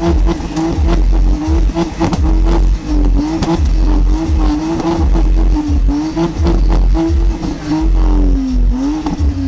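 BMW sedan's engine free-revved hard while parked, held high and jabbed again and again with the throttle. Near the end the revs dip and climb in a few quick swings.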